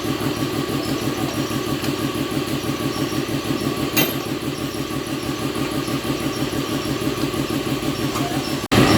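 An engine running steadily with a fast, even pulse, and a single sharp click about four seconds in. The sound drops out abruptly near the end and comes back louder.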